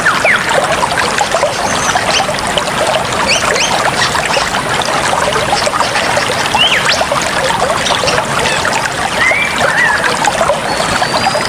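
Running water trickling and gurgling steadily, full of small quick bubbling plops.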